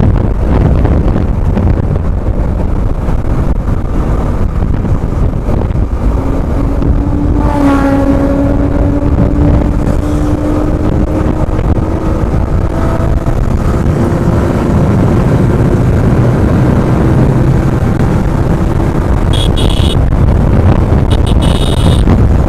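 Heavy wind buffeting on the microphone of a moving motorcycle, with a motorcycle engine pulling under load: its pitch rises slowly for several seconds in the middle. Short high-pitched tones sound near the end.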